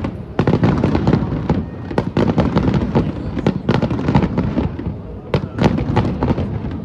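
Aerial fireworks shells bursting in rapid succession, many sharp bangs and crackles overlapping on a continuous low rumble.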